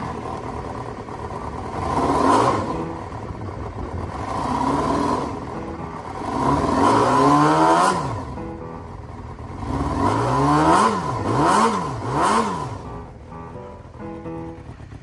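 Honda Jade 250's inline-four engine being revved in blips from idle: a short blip about two seconds in, another around five, a longer climb and drop in the middle, then three quick blips in a row near the end.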